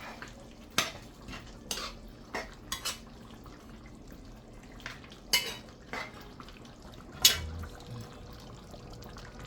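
A spoon knocking against a cooking pot as the curry is stirred and scooped up for tasting: about six separate clinks, the loudest one past the middle.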